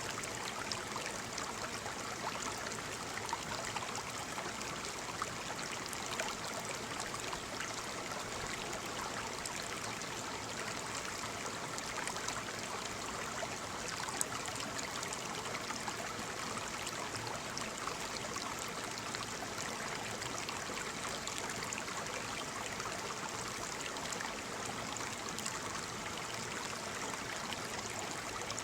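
Waterfall's falling water splashing steadily: an even, unbroken rush of water with fine splashes and no deep rumble.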